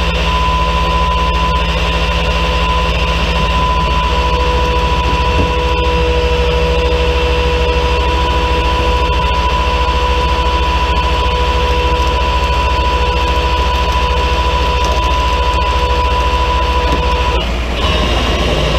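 A truck engine running steadily, with a steady high whine over a low hum; the whine stops about 17 seconds in.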